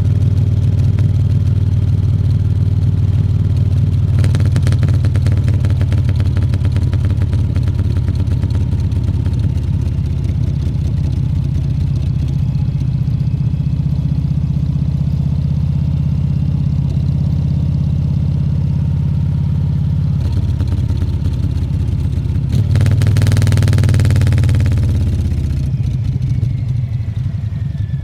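Harley-Davidson Fat Bob 114's Milwaukee-Eight V-twin running steadily while riding, swelling louder under throttle about 23 seconds in, then easing off near the end.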